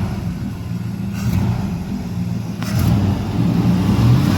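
Truck's 5.7-litre TBI 350 V8, with almost 340,000 miles on it, running just after a cold start. It gets louder in the second half as it is revved up.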